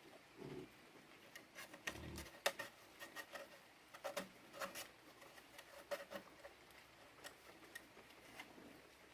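Irregular light clicks and taps, a few at a time with short gaps, the sharpest about two and a half seconds in.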